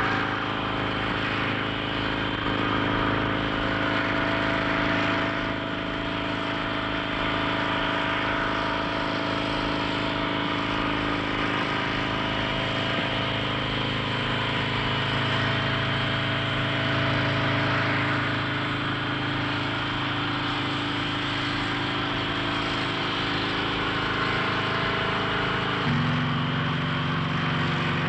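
Helicopter engine and rotors running steadily, a continuous drone. About 26 s in it changes abruptly to a lower, different drone.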